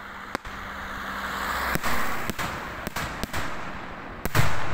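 Daytime aerial fireworks shells bursting: a string of sharp bangs over a rushing hiss that builds through the first couple of seconds, with the loudest, deepest bang near the end.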